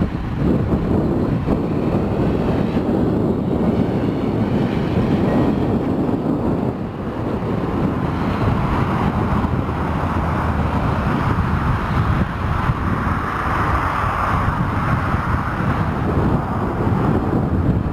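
Engine of a 1982 Ford flatbed crane truck running steadily, with wind buffeting the microphone.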